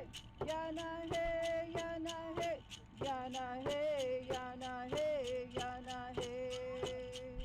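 A singer chanting in long held notes, dropping to a lower pitch about three seconds in, over a steady percussion beat of about two to three strokes a second.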